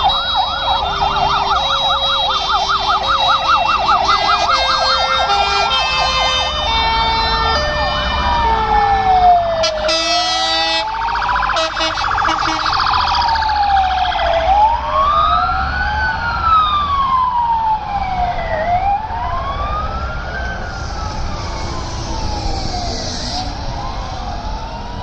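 Sirens of several fire trucks: a fast warbling yelp and a two-tone alternation in the first few seconds, then slow rising-and-falling wails from more than one vehicle overlapping, over a low engine rumble. A short blast with many tones cuts in about ten seconds in.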